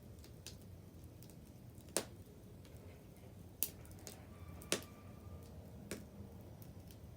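Wood bonfire crackling: a low steady rush of burning with scattered sharp pops from the wood, four of them louder than the rest.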